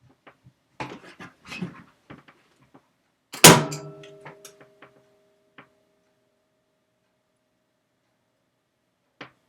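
Mylar bag rustling and clicking as it is positioned in a heat sealer, then one loud clack as the sealer's arm is pressed down to seal across the corner, with a ringing tone that fades over about three seconds.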